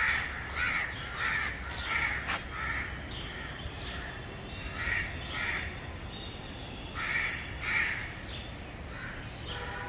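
Birds calling overhead: short, repeated calls. There is a run of about five at the start, a pair about five seconds in, and a few more around seven to eight seconds.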